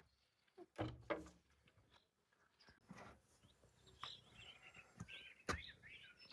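Faint bird chirps and short calls in the second half, after two or three knocks a little under a second in, with a sharp click near the end.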